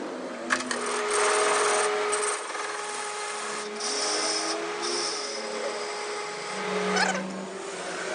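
Metalworking tool noise: scraping and rubbing on metal over a steady machine hum, with a few sharp clicks.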